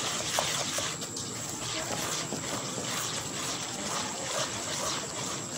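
Besan and semolina roasting in ghee in a steel karahi, a steady frying sizzle with a silicone spatula stirring and scraping through the mixture.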